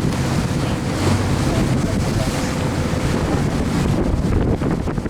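Wind buffeting the microphone over rushing water on a moving motorboat, with the boat's engine running steadily underneath.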